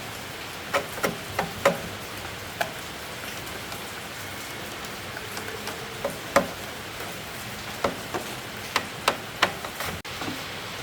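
Steady rain from a heavy storm, with scattered sharp clicks and knocks over it: a quick cluster about a second in and more from about six seconds on.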